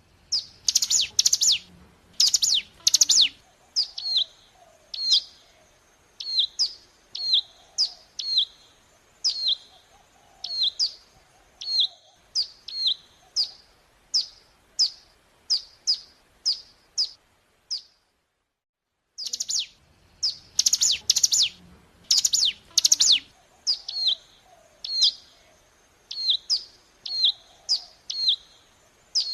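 Ciblek gunung (mountain prinia) song: a quick burst of loud, sharp high notes, then a long run of short down-slurred chirps about two a second. It stops about 18 seconds in and, after a second's silence, the same sequence starts over as a looped lure recording.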